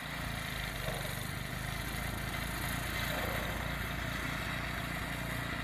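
A steady engine running, with a constant hiss over it.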